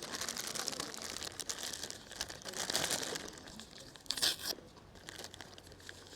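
Crinkling and tearing of a food wrapper being opened by hand, in irregular rustling bursts that die down after about four and a half seconds.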